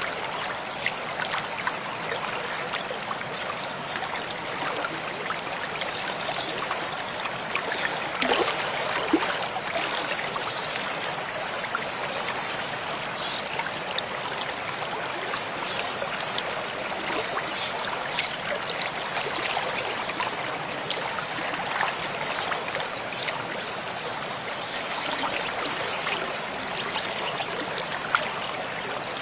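Mountain stream flowing: a steady rush of water full of small splashes and trickles, with a few louder splashes about eight seconds in and again near the end.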